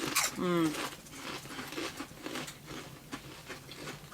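A pleased 'mm', then faint, irregular crackling from potato chips being eaten and their bag being handled.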